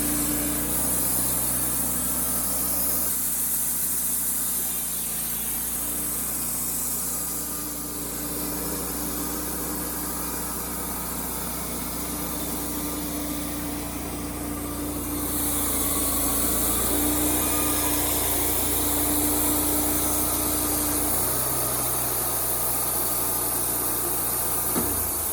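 Wood-Mizer LT35HD band sawmill running while milling a red oak log. The engine runs steadily, and its note steps up and down several times as the load changes, over a steady high hiss.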